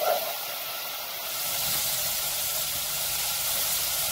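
Chopped onions and ginger-garlic paste sizzling in hot oil in a pot, a steady frying hiss that grows a little louder about a second in.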